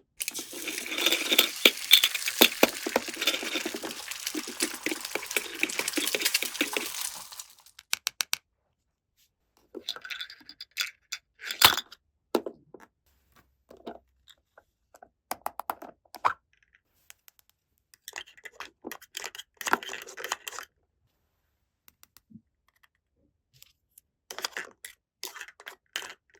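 Toy kitchen play: a dense crackling, crinkling noise for about seven seconds, then scattered small clicks and taps of plastic toy pieces being handled.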